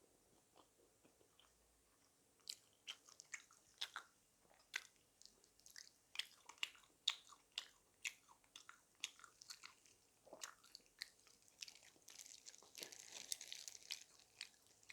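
Close-miked crunchy chewing of crispy food: quiet for about two seconds, then a run of sharp, irregular crunches as it is bitten and chewed, with a denser crackling stretch near the end.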